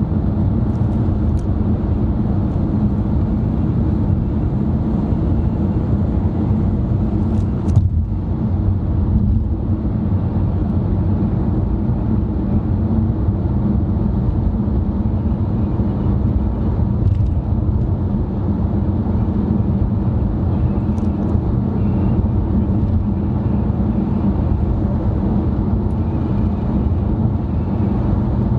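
Steady road and engine noise heard inside a moving car's cabin: an even low rumble, with one brief click about eight seconds in.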